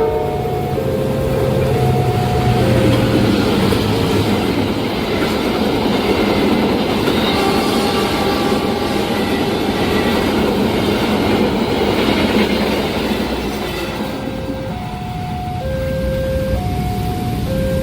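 A diesel-hauled train passing at speed, its locomotive engine humming at first, then a steady rush of wheel and rail noise from the carriages. About fifteen seconds in, as the train noise drops, the level crossing's warning alarm is heard ringing in alternating two-pitch electronic tones.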